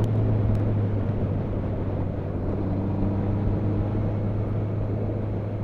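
Motorcycle engine running steadily at road speed, with wind and road noise over it.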